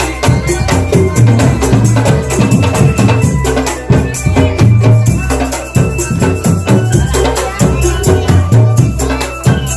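Drum band playing loud, fast percussion: rapid snare and cymbal strokes over heavy bass drum beats, with a thin held melody line above.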